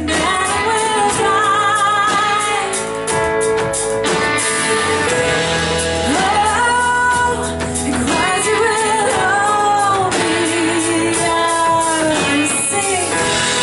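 Live church worship band playing a hymn with guitar while voices sing a sustained melody.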